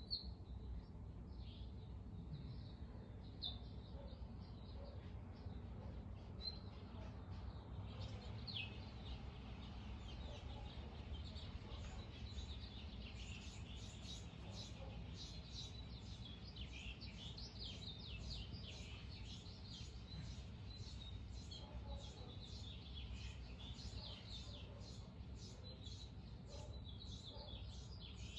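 Dawn chorus of birds: many short high chirps and calls, scattered at first and growing dense and overlapping about halfway through.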